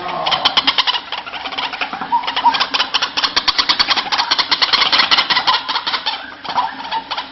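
White-breasted waterhen call, a fast run of harsh, even pulses about ten a second that fades near the end.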